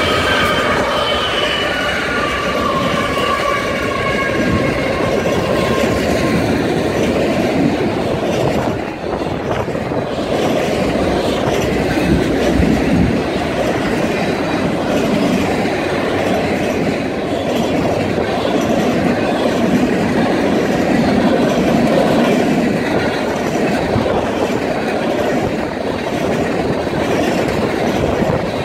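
Freight train passing close by. A locomotive horn chord trails off, dropping slightly in pitch and fading over the first few seconds, over the steady rumble and clatter of the freight cars rolling past on the rails.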